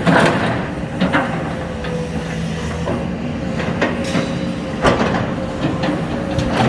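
Komatsu PC210 hydraulic excavator's diesel engine running steadily under load during demolition, with sharp knocks and bangs of its bucket and the debris striking at irregular moments, the loudest near the start and about five seconds in.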